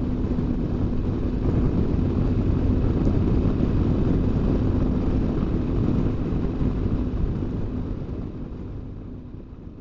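BMW R1200GS Adventure boxer-twin motorcycle running at a steady road speed, with engine hum and wind rush on the rider's microphone. The sound fades away over the last few seconds.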